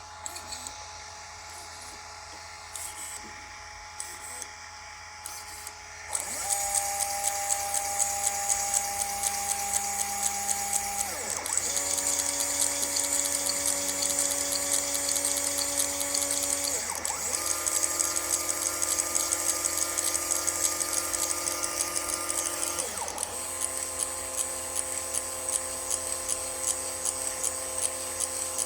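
Stepper motors on a Klipper-driven test rig running together with a steady electric whine. The whine changes pitch three times, sliding briefly down and up between moves as the motors slow and speed up, with a fast regular ticking on top. The first six seconds hold only quieter scattered clicks before the motors start.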